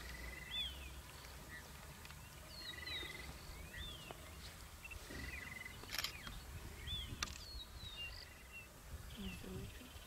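Birds calling, with several short arching whistles and brief rapid trills repeating every second or two, over a low steady rumble. Two sharp clicks come about six and seven seconds in.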